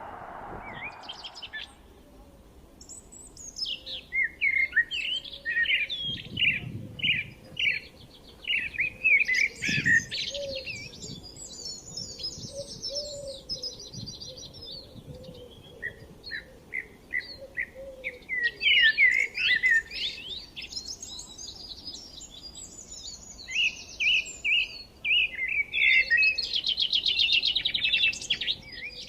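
Small birds chirping: quick series of short high notes and fast trills, coming in bursts with brief lulls between them.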